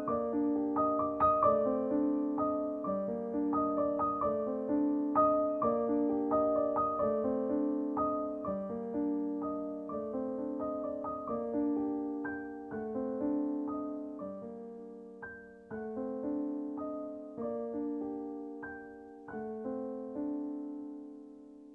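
Background music: a slow, gentle solo piano piece, its notes struck and left to ring, fading out near the end.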